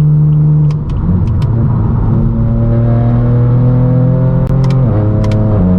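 Straight-piped BMW M4 F82's twin-turbo inline-six (S55) exhaust under acceleration. The engine note drops about a second in at a gear change, climbs steadily for about four seconds, then drops again at the next shift near the end.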